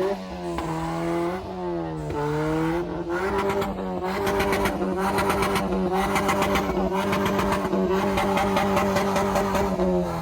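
Car engine revving: the revs dip and climb a few times, then are held high and steady for several seconds with a fast rattle, and start to fall right at the end.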